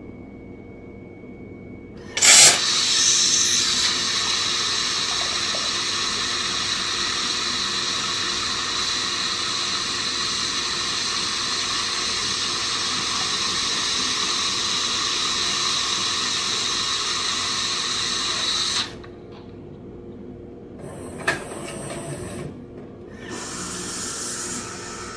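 Jura Z10 automatic coffee machine running a drink cycle. A loud, steady hissing and whirring starts suddenly about two seconds in, runs for about sixteen seconds and stops abruptly. A sharp click and a quieter stretch of machine noise follow near the end.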